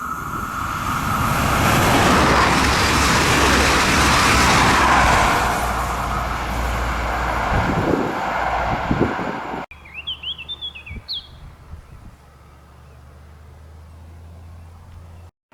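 Train passing close by at speed: a loud rush of wheel and air noise that builds over about two seconds, holds, then breaks up. It cuts off abruptly about ten seconds in, leaving a low steady hum with a few short chirps.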